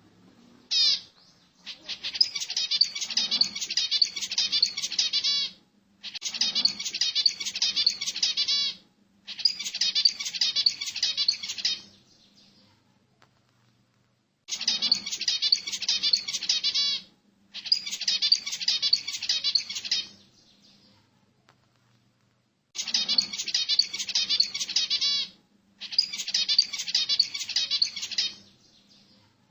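A small cage songbird singing in repeated bursts of rapid, high chirping notes, each burst lasting about three seconds, with short pauses between them.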